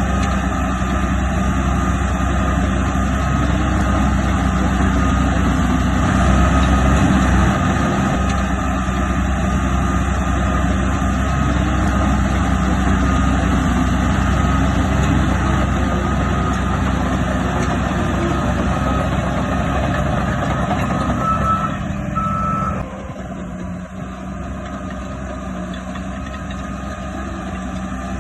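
Heavy diesel earthmoving machinery running steadily with a reversing alarm beeping; about 23 seconds in the beeping stops and the engine sound drops somewhat quieter.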